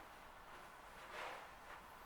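Near silence: room tone, with a faint soft rustle about a second in.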